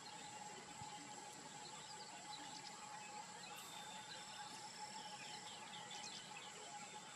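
Faint outdoor wildlife ambience: a steady insect drone with scattered short bird chirps, strongest a little past the middle.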